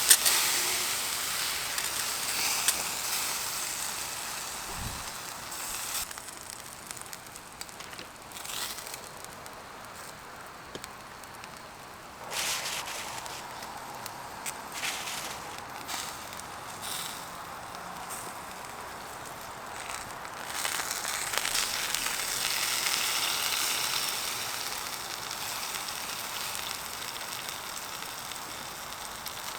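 Wood fire crackling with scattered pops, and a tomahawk steak sizzling on the grill over it. The hiss swells louder near the start and again about two-thirds of the way through.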